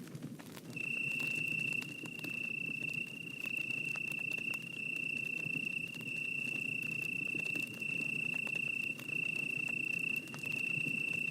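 An insect trilling: one steady, high, pure tone that starts about a second in and breaks off briefly roughly once a second. Under it run the low rush and scattered faint crackle of a bonfire.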